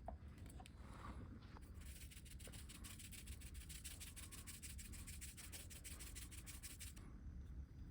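Faint, rapid, regular scraping strokes, several a second, starting about two seconds in and cutting off abruptly near the end.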